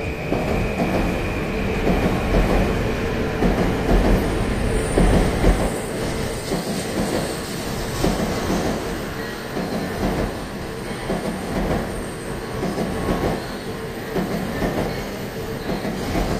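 A train running past, its wheels clattering over rail joints in a repeated rhythm.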